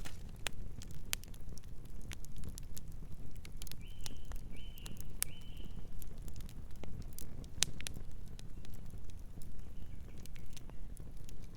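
Campfire crackling and popping with irregular sharp snaps over a low steady rumble. A bird chirps three times, softly, about four to five and a half seconds in.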